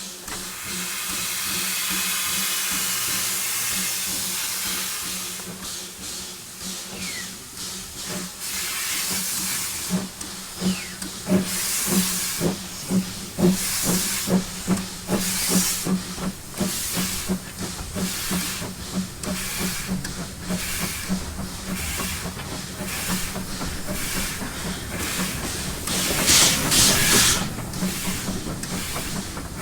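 Terrier steam tank locomotive pulling away: a steady steam hiss at first, then its exhaust beats set in and quicken as it gathers speed. A loud burst of hiss comes near the end.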